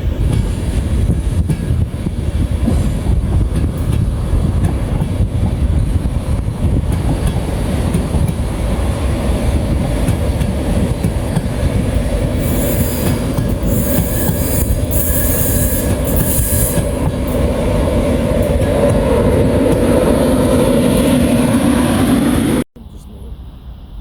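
A train running along the platform at close range, with a heavy wheel-on-rail rumble and clatter. Shrill wheel squeal comes in bursts midway, then a rising whine builds. The sound cuts off suddenly near the end, leaving a quieter wind-like noise.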